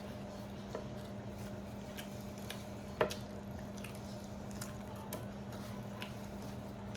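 Soft wet squishing sounds of grilled chicken being eaten by hand, with a few faint clicks and one sharper click about three seconds in, over a steady low hum.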